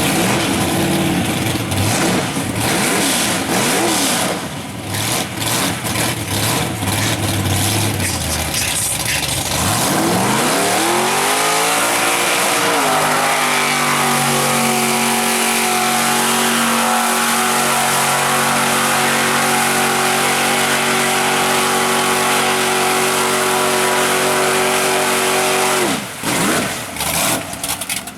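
Mud truck engine running roughly for about ten seconds, then revving up hard and held at high revs for about thirteen seconds before it is let off suddenly near the end.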